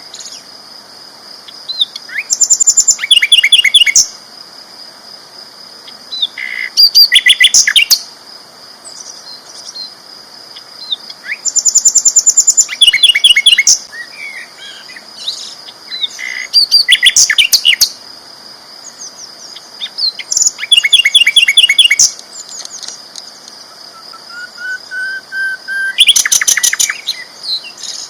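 Sikatan londo flycatcher singing loud bursts of fast, rapidly repeated chirping notes, each burst lasting a second or two and coming about every four to five seconds. A steady high-pitched whine runs underneath.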